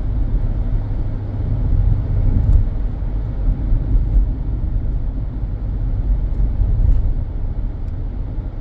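Car driving along a road, heard from inside the cabin: a steady low rumble of road and engine noise with a few faint clicks.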